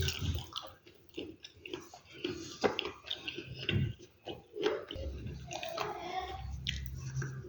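A person chewing and biting crunchy food, with irregular crunches and clicks.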